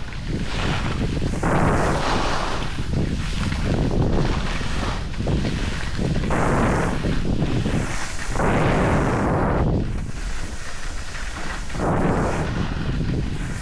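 Wind rushing over the microphone during a run down a ski slope, with the scrape of edges on snow swelling and easing every second or two as the turns come.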